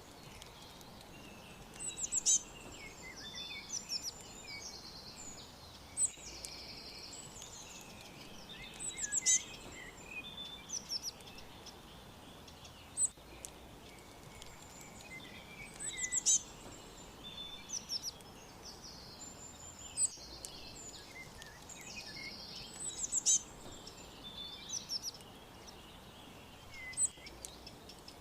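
Small songbirds chirping and trilling in high, short calls over a steady faint background hiss. The same run of calls comes back about every seven seconds, like a looped recording.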